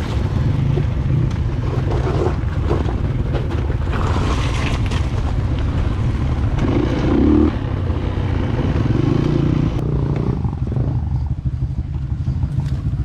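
Dirt bike engine running at low revs along a rough trail, picking up briefly twice in the middle.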